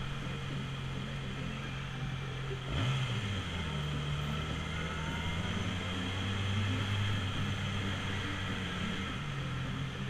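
Motorcycle engine running while riding, with a steady note over a rushing hiss. About three seconds in the note sweeps sharply up and then settles at a different steady pitch, shifting back again near the end.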